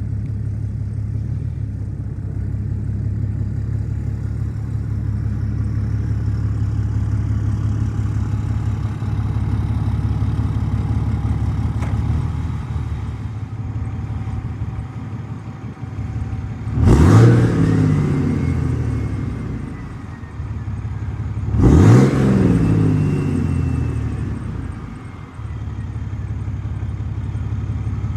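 Straight-piped 6.7 Cummins diesel with compound turbos idling cold after a below-freezing start, blipped twice about five seconds apart. Each rev rises sharply and drops back to idle, followed by a turbo whistle that rises and then slowly fades.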